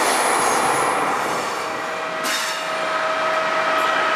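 Passenger train running on the rails, with a thin high wheel squeal in the first second. From about halfway, a steady electric whine with a lighter hum takes over, as from an electric locomotive standing at the platform.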